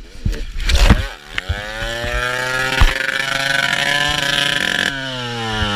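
A few knocks, then a motorcycle engine revving up and holding a high, steady note. It cuts off abruptly near the end and is replaced by an engine note falling steadily in pitch.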